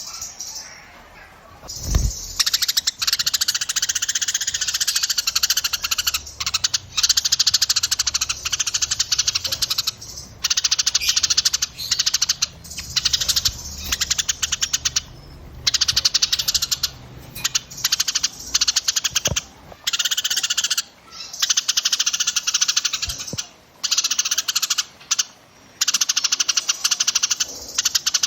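Small songbirds' dense, very rapid trilling song, in bursts of one to three seconds with short breaks between them: a 'burcil rapat' masteran recording played to tutor caged songbirds. A brief low thump about two seconds in.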